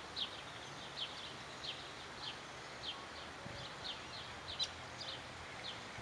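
A small bird chirping over and over, short high notes about every two-thirds of a second, over faint steady outdoor hiss.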